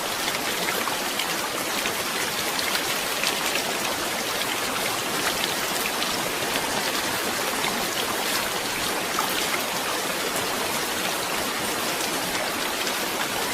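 Steady rain falling, with many distinct drop hits on a surface over an even hiss.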